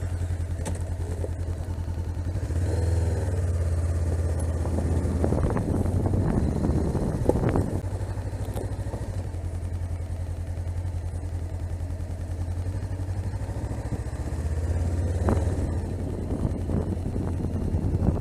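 Honda CB500X parallel-twin engine idling steadily just after starting, with a few light knocks and clicks over it.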